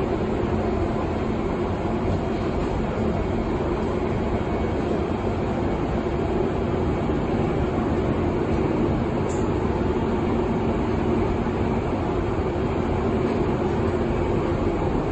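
Berlin U-Bahn train on the U3 line running, a steady unbroken rumble of wheels on rails and traction motors heard from inside the car.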